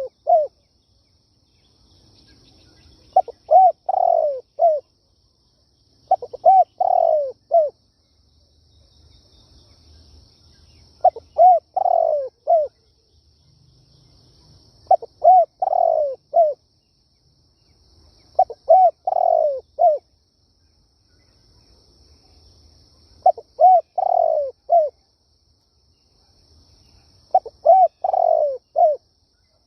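Spotted dove cooing in repeated phrases of several rising-and-falling coos, about one phrase every four seconds. This is the kind of song used as a lure call to draw in wild doves for trapping.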